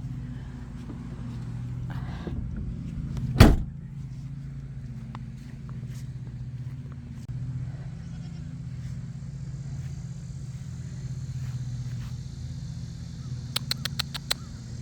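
An engine runs with a steady low hum. One sharp knock comes about three and a half seconds in, and a quick run of light clicks comes near the end.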